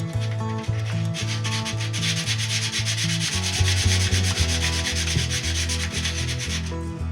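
Steady abrasive rubbing like sanding, starting about a second in and stopping near the end, over background music with a stepping bass line.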